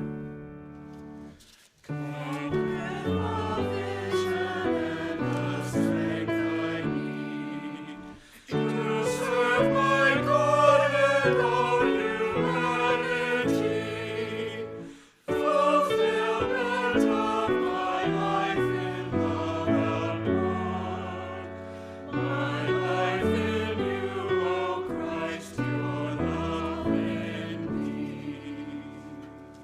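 Church choir singing with instrumental accompaniment, in phrases separated by short breaks, fading out near the end.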